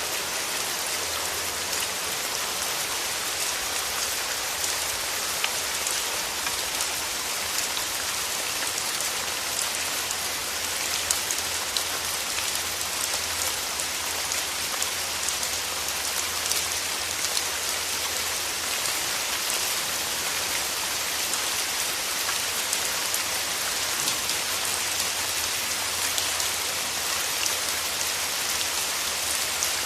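Steady rain falling through forest trees, a dense hiss of drops with many small individual drop ticks.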